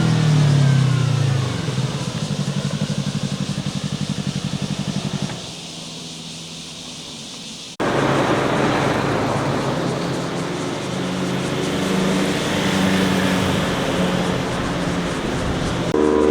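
Motorcycles passing on a winding road: one engine's note falls in pitch as it goes by, then an engine pulses steadily for a few seconds and fades. After an abrupt cut about halfway through, another engine runs, with a further pass-by building near the end.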